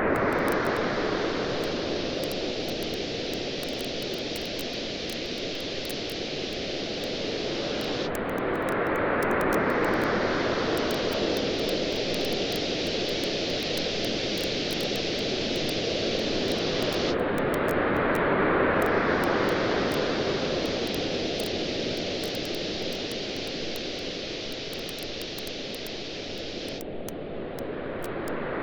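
Ocean waves washing ashore in a steady hiss, swelling about every nine seconds, with a campfire faintly crackling.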